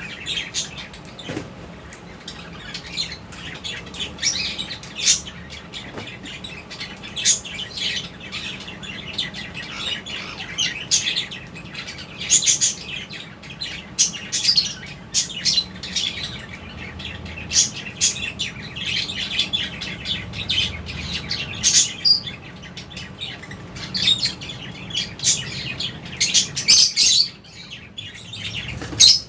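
A flock of lovebirds chirping and chattering, with many short, sharp, high calls overlapping one after another.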